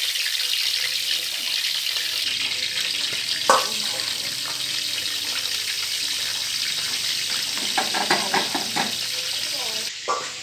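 Frog pieces frying in hot oil in a large metal wok, a steady sizzle. There is a brief louder sound about a third of the way in.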